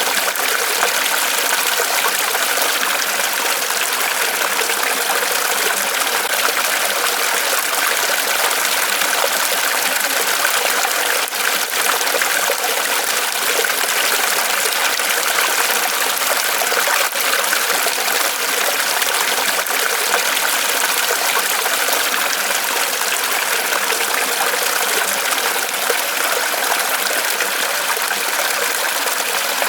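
Small waterfall of water trickling and splashing steadily from a tree trunk.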